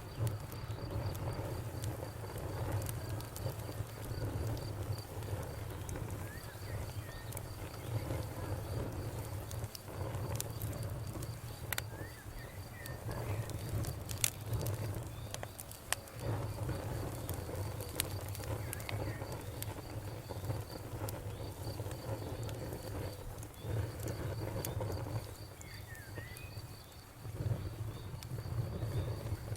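Campfire crackling, with scattered sharp pops over a low rumble that swells and fades. Crickets chirp in a steady rapid pulse in the background.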